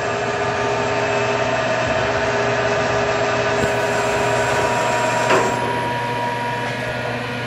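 Atrump B5-FC CNC bed mill running, its spindle turning at low speed, about 830 RPM, while the axes are jogged from the pendant: a steady machine whine made of several held tones, some of which drop out or come in partway through. One sharp click about five seconds in.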